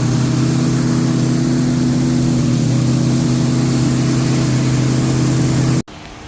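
440 Magnum big-block V8 running steadily at a fast idle during its break-in run, loud and even. It cuts off abruptly near the end, leaving the engine much quieter.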